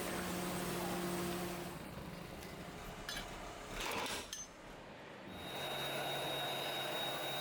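Factory machinery running: a steady hum, a few clicks and clinks about three to four seconds in, then steady machine noise with a thin high whine.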